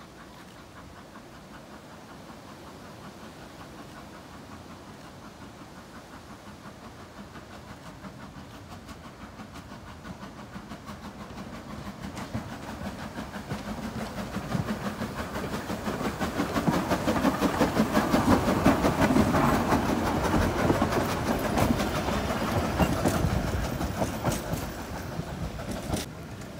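Narrow-gauge train approaching and passing, its wheels clicking rapidly over the rail joints. It grows steadily louder to a peak about two-thirds of the way through, eases off, then drops away suddenly near the end.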